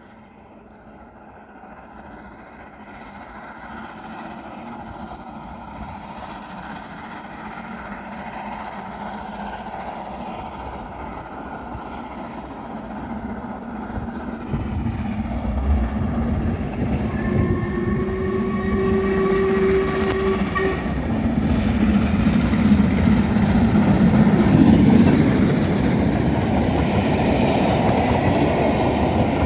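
Railtour train approaching and growing steadily louder, sounding one long whistle about two-thirds of the way through as it nears.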